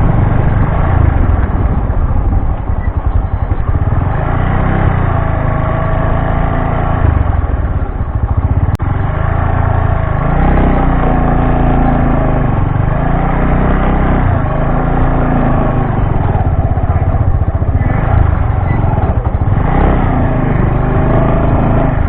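Bajaj Boxer BM 150 X single-cylinder motorcycle engine running under way, loud and continuous. Its pitch rises and falls repeatedly through the second half as the throttle changes.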